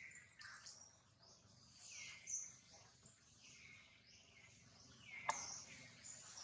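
Faint high-pitched bird chirps, a string of short falling calls about once a second, with a sharp click about five seconds in.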